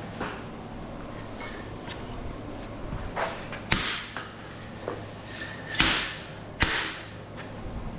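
A few sharp knocks and clatters, such as parts and tools being handled on a workbench, the loudest three in the second half, over a low steady hum.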